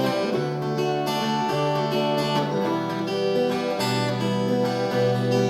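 Instrumental break of a rock song played on acoustic guitar, with held notes changing about every second and no singing.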